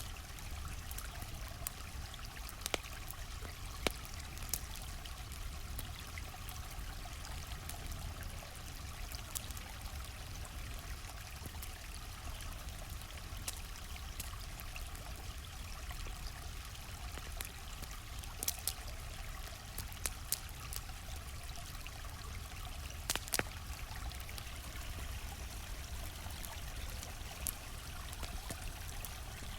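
A flowing stream's steady rush of water, with a campfire crackling over it in occasional sharp pops.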